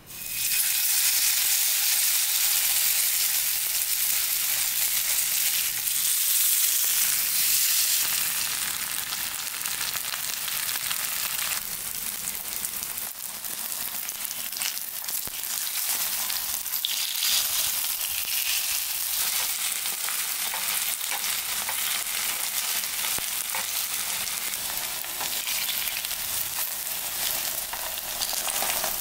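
Shredded zucchini and potato pancakes sizzling as they fry in oil in a pan, a dense steady crackling hiss, somewhat louder for the first eight seconds or so.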